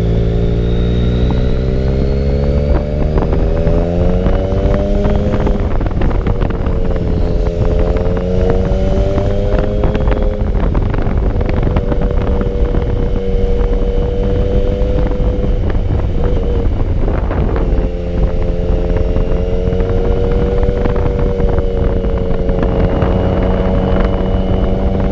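Sport motorcycle engine under way: the revs climb over the first few seconds, then hold steady at cruise with slight rises and falls and a brief dip about eighteen seconds in. Wind rushes over the microphone throughout.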